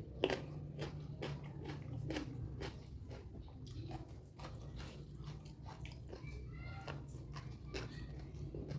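Close-miked chewing and biting: a person eating mouthfuls of raw vegetables, with many short sharp clicks and wet mouth smacks, the loudest just after the start.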